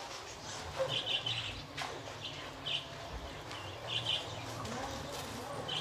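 Small birds chirping in short high bursts, about four in all, a second or so apart, over a low steady background hum.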